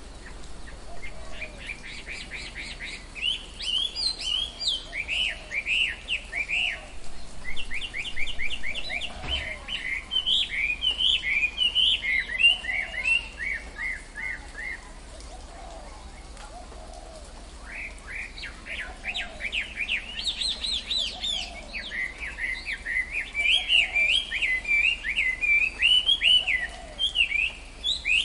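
Birds singing: rapid runs of quick, downward-sweeping chirps in two long bouts with a lull of a few seconds in between. Fainter, lower calls repeat in the background.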